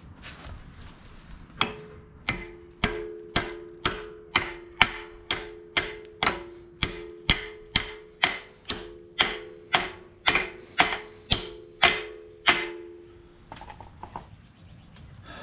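Hammer blows driving out a stuck steel pin on a John Deere 35D excavator: about twenty strikes, roughly two a second, each leaving a short metallic ring, then they stop.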